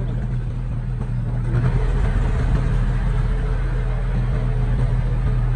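Heavy diesel engine of earthmoving equipment running steadily under load, getting a little louder about a second and a half in.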